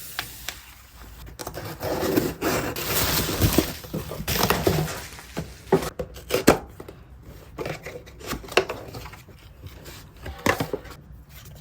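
Packaging being handled and opened up close: rustling and scraping, with scattered sharp clicks and knocks.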